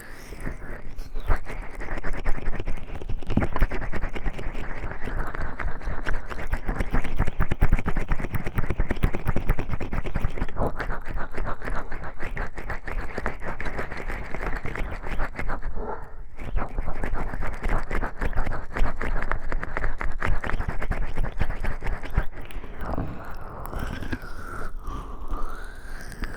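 Oiled hands rubbing and massaging over the ears of a 3Dio binaural microphone: a close, continuous slick rubbing full of fine crackles, with a brief break about 16 seconds in.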